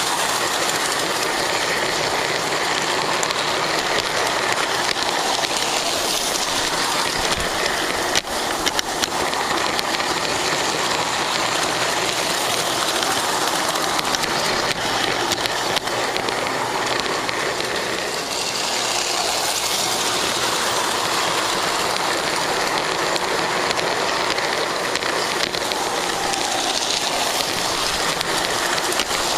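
Lionel GP9 O gauge model locomotive running on track, heard from on board: a steady hiss of motor and wheels on the rails, with a few sharp clicks about eight seconds in.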